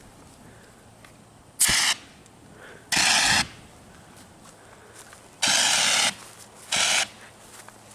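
Four short, loud hissing bursts, the third one the longest, with quiet between them.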